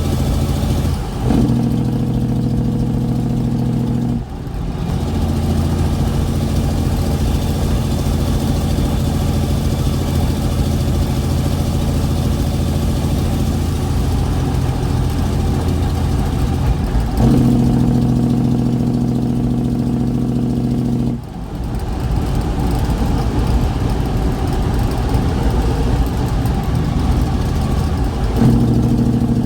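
Straight-piped Kenworth truck's diesel engine running loud throughout. Three times it settles into a steady, strongly pitched exhaust note; the first two stop abruptly and give way to a rougher rumble, and the third starts near the end.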